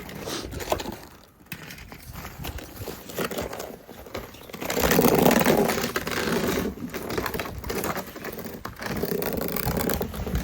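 Irregular scraping and crunching in snow as toy trucks are loaded into a plastic sled, louder for a moment about five seconds in.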